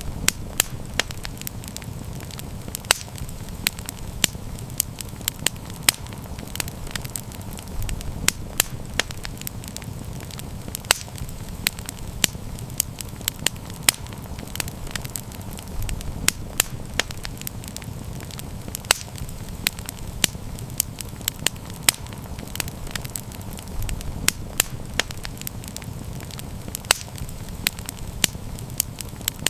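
Wood fire crackling: frequent sharp pops and snaps at irregular intervals over a low, steady rumble of the burning.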